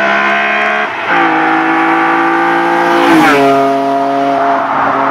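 A high-revving car engine pulling hard, its note dropping sharply twice, about a second in and again past three seconds in, as it shifts up a gear each time.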